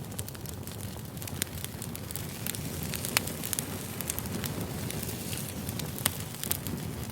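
Wood campfire crackling: a steady low hiss of burning with frequent irregular sharp pops and snaps, a few of them louder, such as one about three seconds in.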